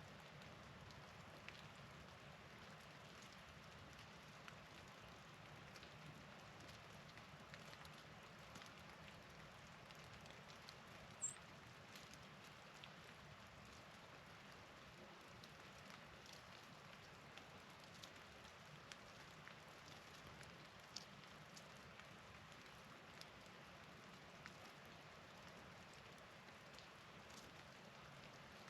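Near silence: a faint, steady outdoor hiss with light, scattered ticks of falling precipitation. A single brief high-pitched chirp comes about eleven seconds in.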